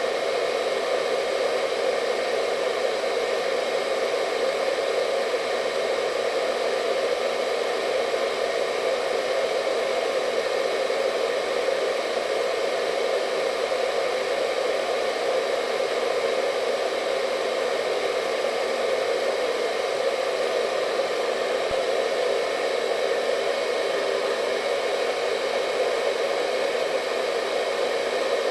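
Hair dryer running continuously at a steady speed: an even rushing whir of blown air, strongest in the lower middle, with a faint steady motor whine above it.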